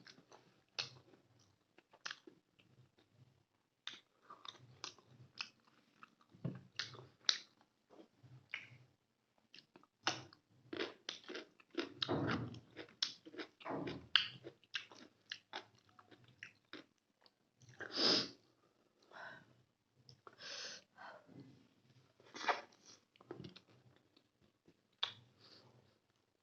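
Close-up eating sounds: chewing rice and chicken in gravy, with irregular wet smacks, crunches and bites.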